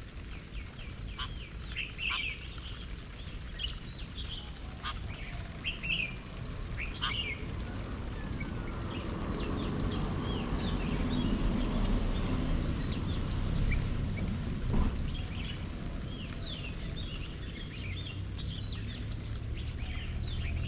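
Garden birds calling, many short chirps and slurred notes in quick succession, over a low rumble that swells through the middle and fades, with a few sharp clicks.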